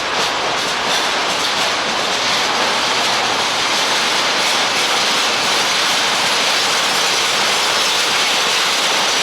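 Passenger train rolling along the station platform, a steady loud noise of wheels on rails.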